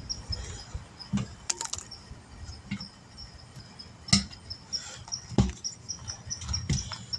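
Scattered knocks and clicks of tools and wheel parts being handled during tire work, the loudest about four and five and a half seconds in. A faint high chirp repeats several times a second through the second half.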